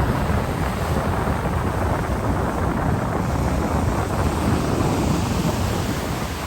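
Wind buffeting the microphone over the steady wash of sea surf, a constant rumbling noise that eases slightly near the end.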